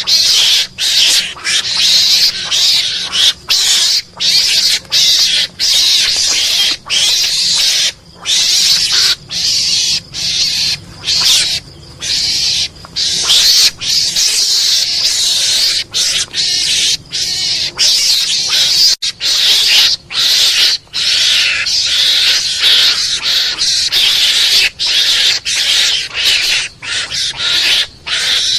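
Mongoose (garangan) calls from a hunting-lure recording: harsh, hissy screeching calls repeated in quick succession with short breaks, about one to two a second.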